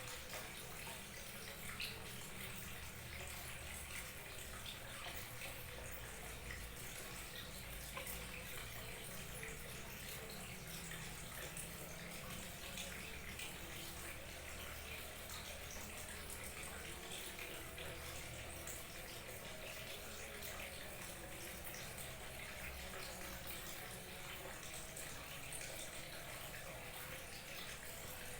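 Small waterfall trickling and splashing steadily, a continuous wash of running water flecked with fine splashes.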